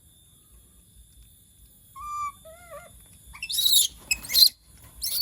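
Pet monkey calling: a few short, whistle-like calls about two seconds in, then louder, shrill high-pitched calls a second later and again near the end.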